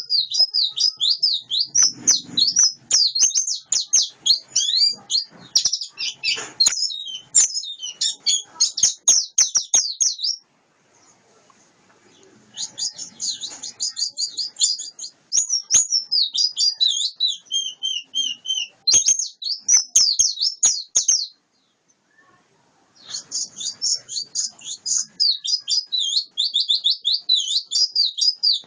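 White-eye (pleci) singing a long, fast warbling song of high, rapid chirps and trills, in three long runs broken by two short pauses.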